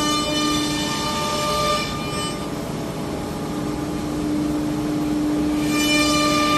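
CNC router spindle running with a steady high-pitched whine over a hiss. Its upper overtones fade in the middle and come back strongly near the end.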